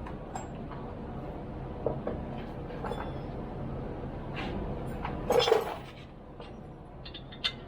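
Metal tools and bolts being handled, with scattered clicks, clinks and knocks and one louder clank about five and a half seconds in.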